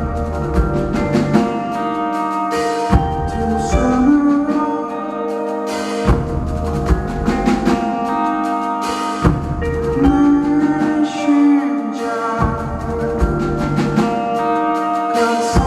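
A rock band playing live: drum-kit hits land every second or two over sustained guitar and bass chords, with no clear singing.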